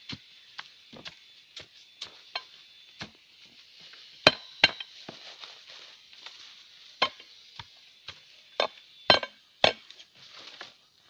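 Irregular series of sharp chopping strikes into wood and roots, about one or two a second, with the hardest blows about four seconds in and again near the end, as the roots holding an overgrown buried object are hacked through.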